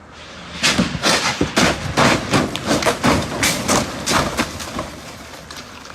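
A car crash: a rapid string of heavy thuds and bangs begins about half a second in and lasts about four seconds, as a vehicle strikes and tumbles, then fades out.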